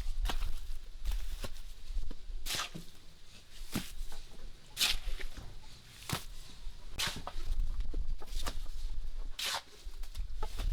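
A series of sharp knocks at irregular intervals, roughly one a second, over a steady low rumble.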